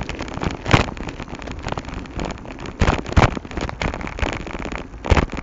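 Irregular knocks and rattles with a rough rushing noise underneath, as a handheld camera is jostled while riding a bike over a bumpy road.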